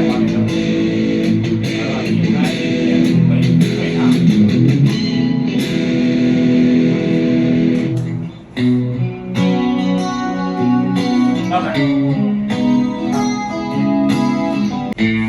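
Ibanez RGA42EX electric guitar played through a Zoom G5n multi-effects unit, with continuous riffing and a brief break about eight seconds in before the playing resumes.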